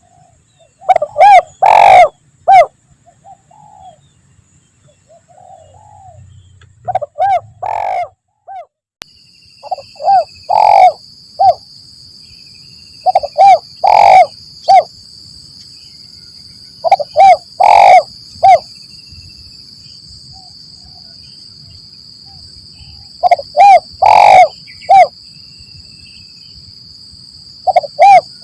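Spotted dove (tekukur) cooing: about seven phrases of three or four mellow coos, one every three to five seconds. About a third of the way in, a steady high-pitched tone starts behind the calls and keeps going.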